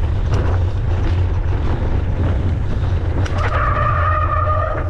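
Wind buffeting the microphone and trail noise from a mountain bike being ridden, a loud steady low rumble with scattered knocks. About three seconds in, a high steady squeal joins it and holds for about a second and a half.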